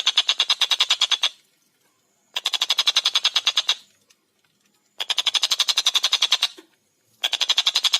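Tengkek buto kingfisher giving its rapid chattering call: series of quick, evenly spaced notes at about ten a second, each series lasting one and a half to two seconds. A series ends about a second in, and new ones start near the middle and about seven seconds in, with short silences between.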